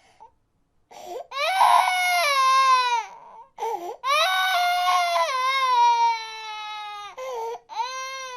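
A baby crying: after a second of silence, two long wails that fall in pitch, each followed by shorter cries.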